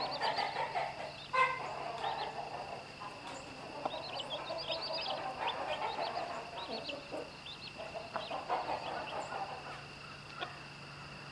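Hen clucking low and repeatedly while her chicks peep in many short, high cheeps.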